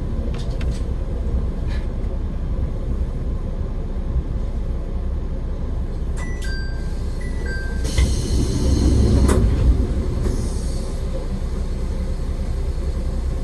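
An AN-8800 single-car diesel railcar running with a steady low rumble. About six seconds in, a two-tone electronic chime sounds, alternating high and low twice, and then a loud hiss follows for about a second and a half.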